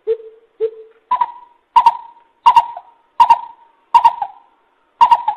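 Coucal (bìm bịp) calling a series of hollow hoots: two lower notes, then about six notes roughly an octave higher, spaced a little under a second apart.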